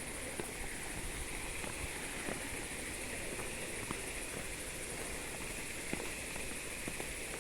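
Footsteps of hikers walking a forest trail, light scattered steps and scuffs, over a steady high-pitched hiss of forest ambience.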